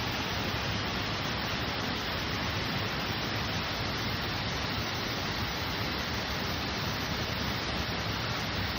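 Fudō Falls waterfall: water falling and crashing, a steady unbroken rush.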